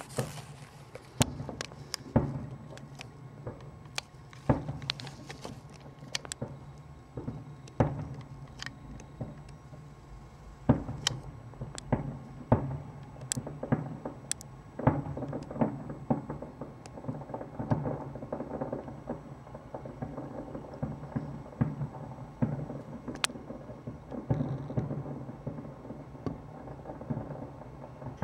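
Aerial fireworks shells bursting at a distance: an irregular run of booms and sharp cracks, some much louder than others, over a low steady hum.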